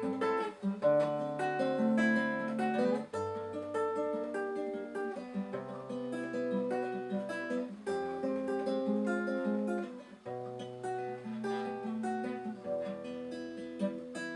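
Acoustic guitar fingerpicked: a run of single plucked notes over low bass notes that change every couple of seconds, closing the song after the singing has stopped.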